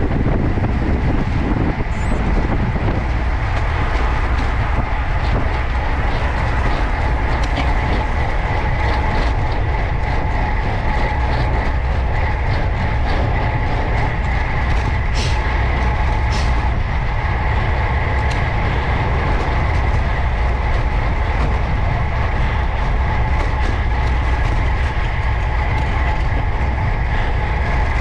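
Riding noise from a moving road bicycle: wind rumbling on the microphone, with a steady high-pitched hum from the tyres and drivetrain and a few light clicks.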